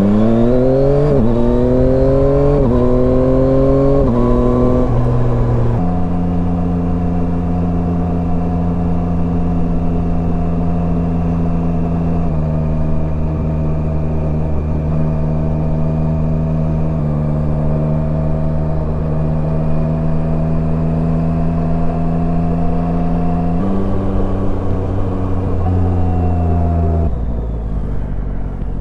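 Yamaha Tracer 9's inline three-cylinder engine accelerating through about four quick upshifts: the pitch rises and drops with each gear change. It then runs at a steady cruise with a few small changes in engine speed, and the revs fall near the end.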